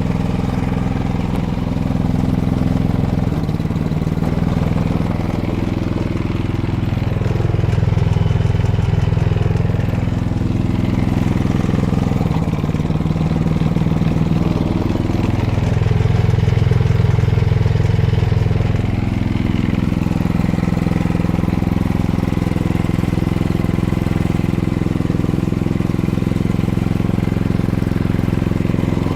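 Craftsman snowblower's single-cylinder four-stroke engine running after its first cold start of the season, warming up on last season's stabilized gas. Its speed rises and falls several times.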